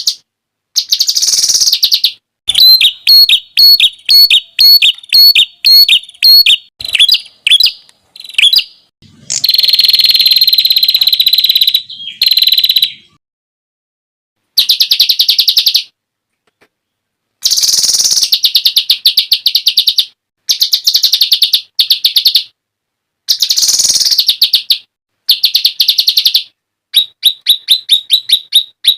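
Songbird song in loud bursts of fast, high, repeated sharp notes and trills, separated by short silences. These are the rapid-fire 'tembakan' phrases used as masteran, recorded song played to teach cage birds their repertoire.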